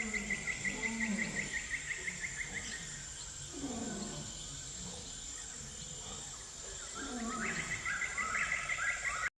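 Wild animal soundscape: fast chirping trills, a steady high insect hiss, and low calls that slide down in pitch, heard three times. It cuts off suddenly near the end.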